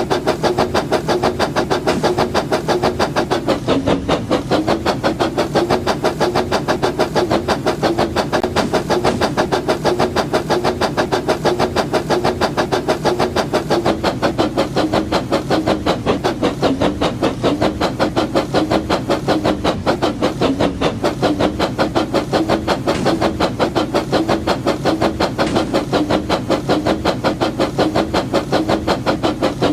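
Battery-powered brick-built toy train (James the Red Engine) running steadily along its track, with its motor and wheels making a fast, even clatter of several beats a second.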